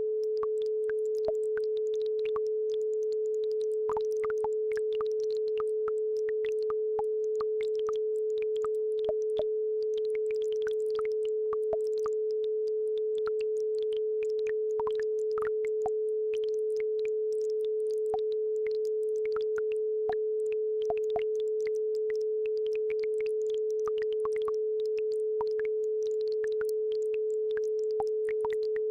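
A steady pure tone at 432 Hz, the base frequency of a brainwave-entrainment track, running unbroken over a faint babbling brook's irregular trickle.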